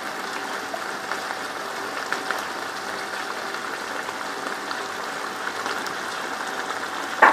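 Chicken masala with freshly added yogurt sizzling and bubbling in the cooking pot: a steady hiss with light crackles. A louder clatter comes right at the end.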